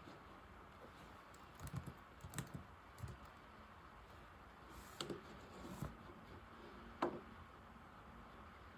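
Typing on an old laptop keyboard: keys clicking in short, uneven runs with pauses between, the sharpest keystroke about seven seconds in.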